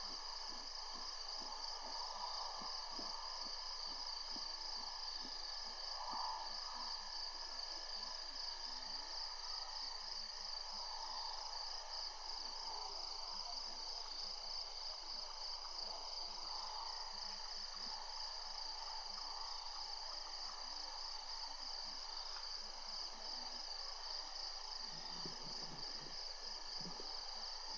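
Steady evening chorus of insects: a continuous shrill, quivering trill with fainter layered chirring beneath it. A brief soft low rustle comes near the end.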